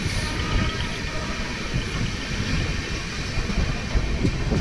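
Passenger train running along the track: a steady rumble with no clear beat of wheels over rail joints.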